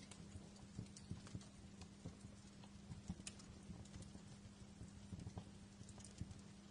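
Wood fire crackling in a fireplace: irregular sharp pops and snaps, several a second, over a soft low rumble, with a faint steady hum underneath.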